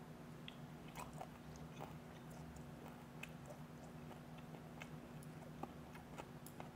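A man chewing a mouthful of fermented skate sushi close to a lapel microphone: faint, irregular wet mouth clicks over a steady low hum.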